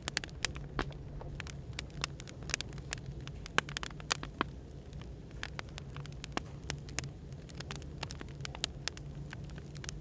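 Wood fire crackling, with many irregular sharp pops and snaps, over a steady low hum of café background noise.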